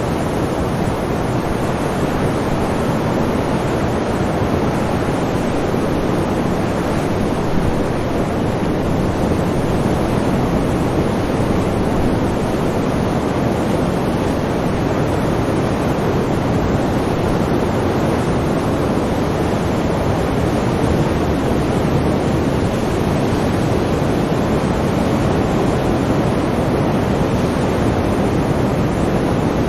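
Sea waves making a continuous, even rush of surf with no distinct breaks or pauses.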